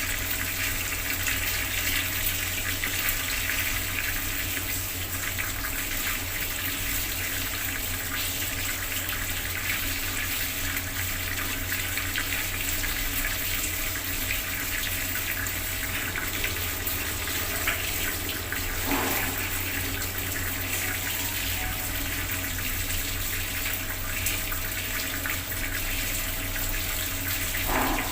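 Bathroom water tap running, a steady stream of water pouring and splashing without a break.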